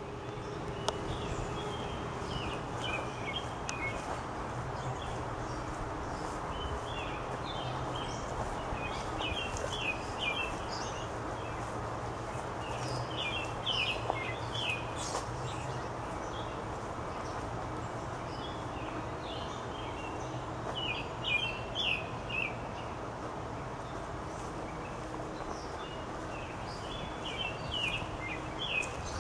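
A songbird singing short chirping phrases, repeated every few seconds, over a steady outdoor background rumble.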